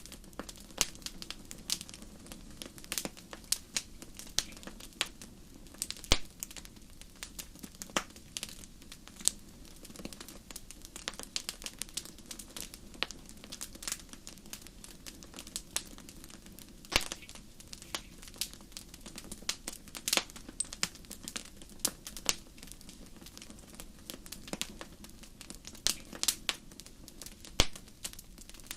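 Wood fire crackling: irregular sharp pops and snaps from burning firewood over a steady low rustle of flames.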